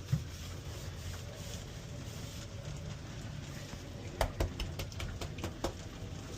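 Steady rain in the background, with a quick run of sharp clicks and knocks between about four and six seconds in.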